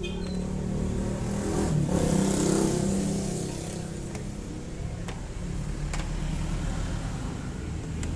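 A passing motor vehicle's engine, swelling to its loudest about two seconds in and then fading, with a few light clicks afterwards.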